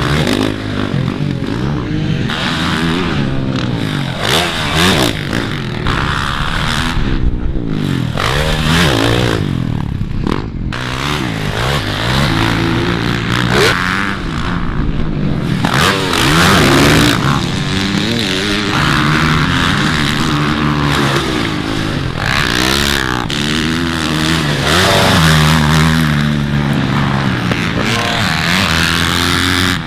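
Several motocross dirt bikes racing on the track, their engines overlapping and repeatedly revving up and falling back in pitch as the riders accelerate, shift and back off.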